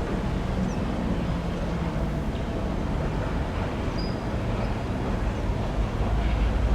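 Freight train rolling by: a steady rumble of diesel locomotive engine and railcar wheels, growing heavier near the end.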